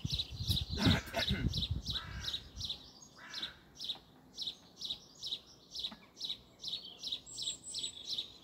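A garden bird calling one short, high note over and over, evenly, about two or three times a second, with a second, higher call joining in near the end. Soft handling sounds come in the first couple of seconds.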